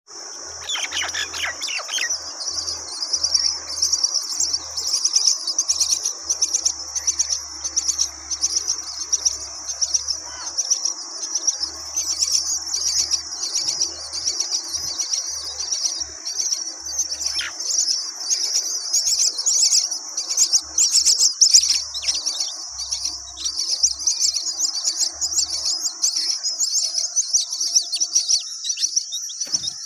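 Birds chirping continuously: a dense, high-pitched chorus of rapid chirps with no pause.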